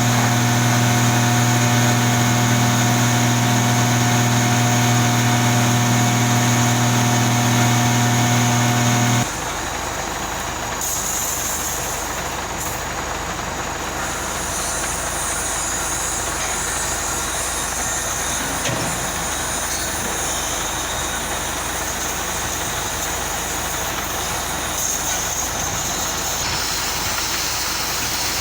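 A truck horn held as one loud, steady blast for about nine seconds, cutting off suddenly. After it, a truck engine runs steadily.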